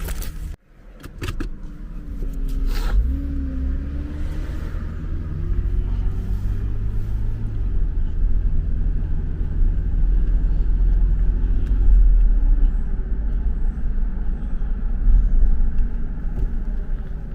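Car driving, heard from inside: a steady low engine and road rumble that builds after a brief dropout about half a second in, with a few light clicks early on.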